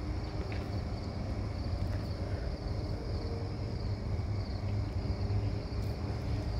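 Low, steady rumble of an approaching CN double-stack freight train's diesel locomotives, still far off, with crickets chirping in a steady high pulsing trill.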